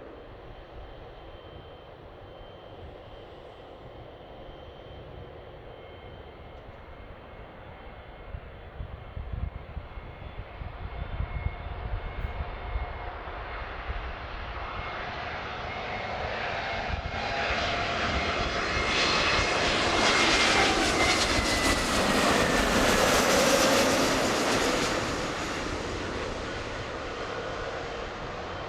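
Jet airliner on landing approach passing the spotting position: engine noise builds slowly, is loudest a little past the middle with a high fan whine that drops in pitch as it goes by, then fades.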